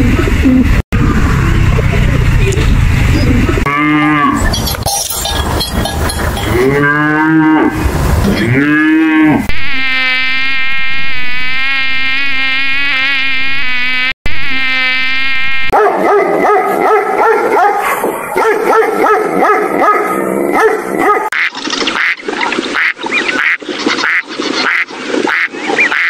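A run of animal sounds, one after another. First come three drawn-out moo-like calls, each rising and falling in pitch. Then a mosquito's steady high whine lasts about six seconds, and the last seconds hold quick calls repeated about twice a second.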